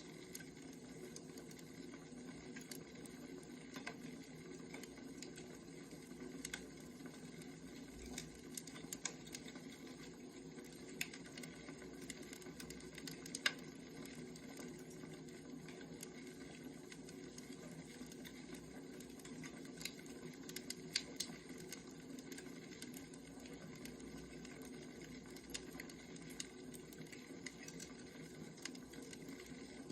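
Wood fire crackling: a steady low rush with scattered, irregular sharp pops, a few of them louder.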